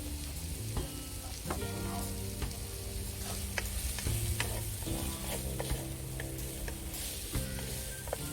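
Onion and sweet pepper sizzling in oil in a frying pan, stirred with a utensil that scrapes and taps against the pan in frequent sharp clicks. Soft background music with steady low notes plays underneath.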